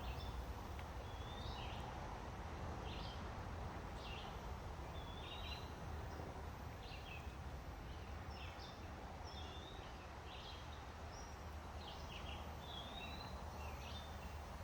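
Birds chirping: short high calls and brief whistled notes about once a second, over a steady low background rumble.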